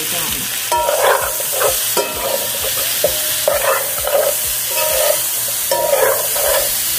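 A metal spoon stirring and scraping moringa (drumstick) pods and potato pieces frying in a metal pot, over a steady sizzle. The scraping and clinking come in several bursts.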